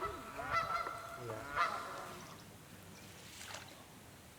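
Canada geese honking: several loud honks in the first two seconds, then fading to a single fainter call near the end.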